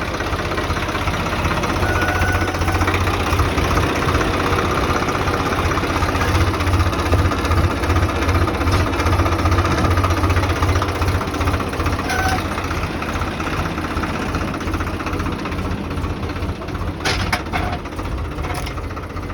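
Tractor diesel engine running steadily, with a few sharp clicks near the end.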